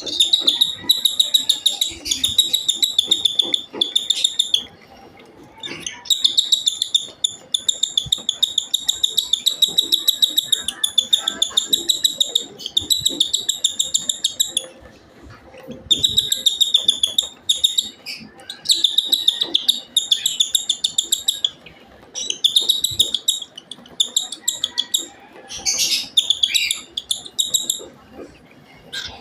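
Baby cockatiel's feeding begging calls: rapid, pulsing high-pitched chirps in runs of several seconds, broken by short pauses.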